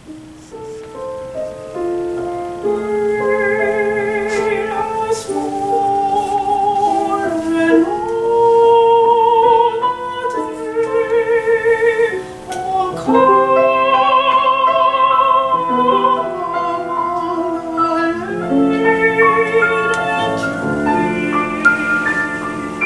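Mezzo-soprano singing classical art song with wide vibrato and long held notes, accompanied by piano. The voice comes in about two seconds in, over sustained piano chords.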